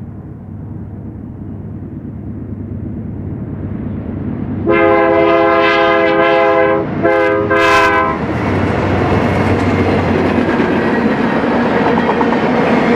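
BNSF freight train approaching, its rumble growing, then the locomotive's multi-chime air horn sounds a long blast and a shorter one about halfway in. The train then passes close with loud rolling wheel noise and clickety-clack.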